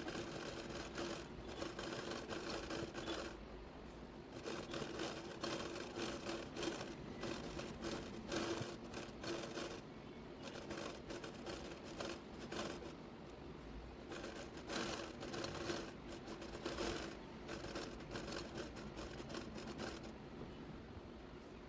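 Hand embroidery: a needle and thread pulled repeatedly through fabric stretched in a hoop, giving irregular pops and rasping strokes over a steady low hum.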